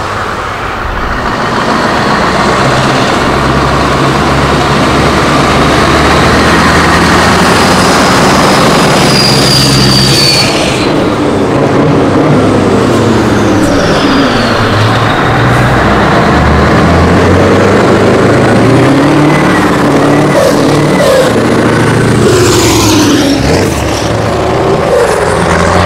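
Scania 143 V8 diesel truck engine running loudly under load as the truck pulls away, then revved several times in the second half, its pitch rising and falling with each rev.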